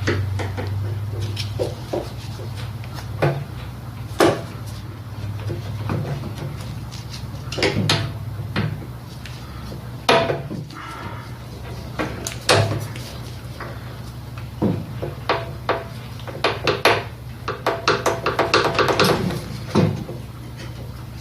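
Pliers and small metal parts clicking and clinking in scattered, irregular knocks while a carburetor fuel line and linkage are worked back into place on a small Tecumseh mower engine. The clicks come thicker near the end, over a steady low hum.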